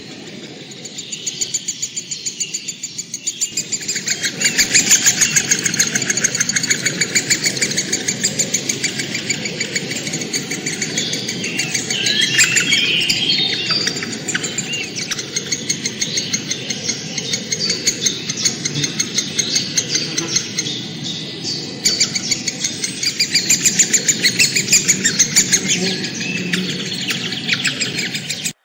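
Birds chirping in a dense chorus of short, rapidly repeated notes, several a second, over a steady low background noise.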